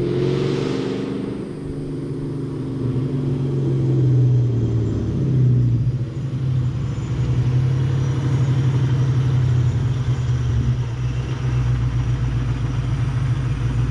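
A car engine running, its pitch rising and dipping about four to six seconds in before settling into a steady low run.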